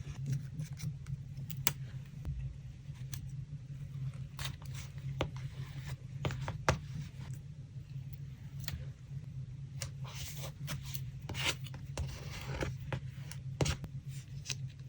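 Paper handling during collage work: scattered light taps and clicks with short rustling and scraping swishes, over a steady low hum.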